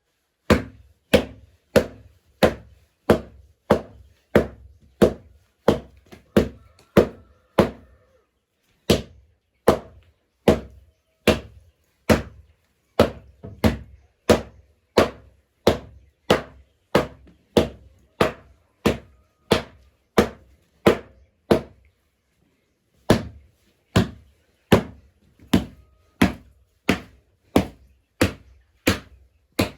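Heavy strikes repeated at an even pace of about three every two seconds, each a sharp thud, with a short pause about eight seconds in and another around twenty-two seconds in.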